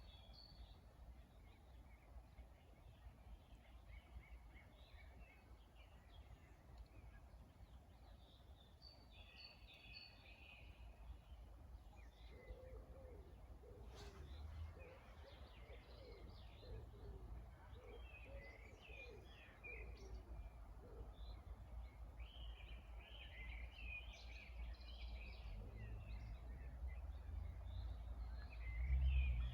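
Several songbirds singing and chirping in scattered short phrases, with some lower calls in the middle. A low rumble runs underneath and grows louder near the end, and there is a single sharp click about halfway through.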